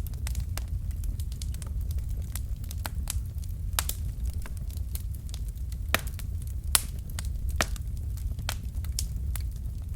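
Wood fire burning in a fireplace: irregular sharp crackles and pops from the burning logs over a steady low rumble of the flames, with a few louder pops about six to seven seconds in.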